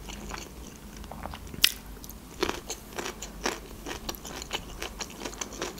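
Chewing with crisp crunches from biting into a small pickled gherkin: one sharp crunch about one and a half seconds in, then softer crunches about every half second.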